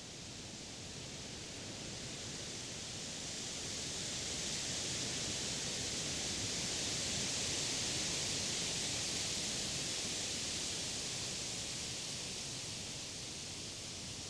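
Wind blowing through leafy summer trees and grass, the leaves rustling. A gust swells to its loudest about halfway through, then eases off.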